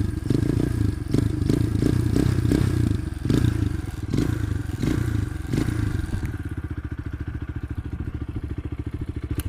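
Euro Flash R150 motorcycle's air-cooled, carbureted 150cc engine running, with several short surges in engine speed during the first six seconds, then settling to a steady idle.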